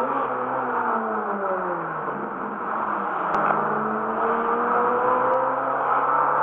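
Ferrari F430's V8 engine running: the revs jump up at the start, fall away over about two seconds, then climb slowly again before another quick rise near the end.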